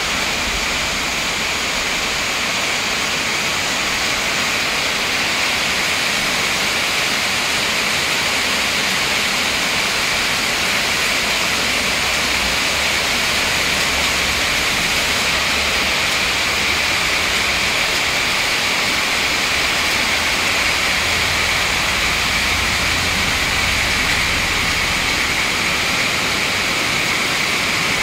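Heavy rain pouring steadily onto leafy trees and a tiled driveway, a dense, even hiss that does not let up.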